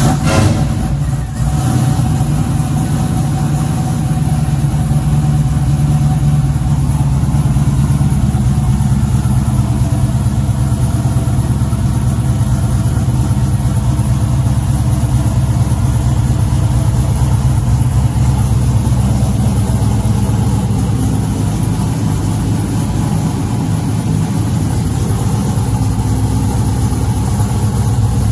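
A 1985 Camaro IROC-Z's V8 engine running. It comes in suddenly at the start, dips briefly about a second in, then idles steadily.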